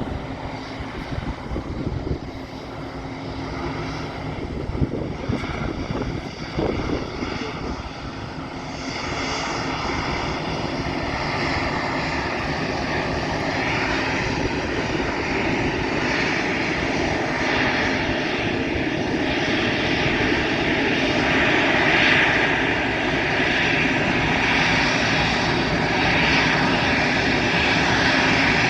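Airbus A320-214's CFM56 jet engines running, a steady high whine over a low rumble that grows gradually louder through the second half. Wind buffets the microphone with gusty thumps in the first third.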